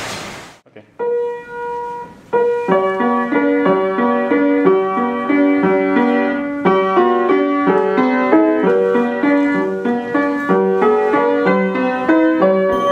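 Piano playing a running melody with accompaniment, starting about a second in just after a steady rushing noise fades out.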